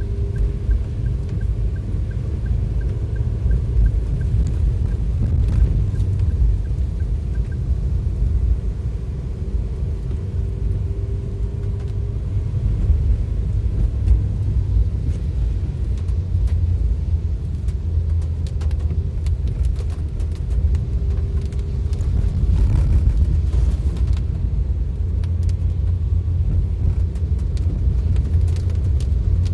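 Steady low rumble of a vehicle driving on a road in heavy rain, with a faint regular ticking in the first several seconds.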